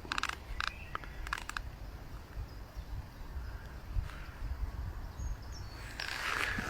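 Woodland ambience: small birds chirping faintly, with two short bursts of quick rustling clicks in the first second and a half and a low rumble of wind on the microphone.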